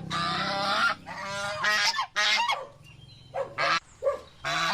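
Swans honking: a string of pitched calls, some short and some held for most of a second.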